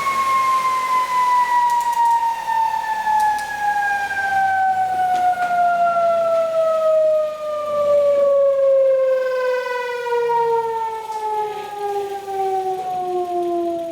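Whine of a prototype ReGen-X coil electric motor, one tone with overtones falling slowly and steadily in pitch as the rotor winds down.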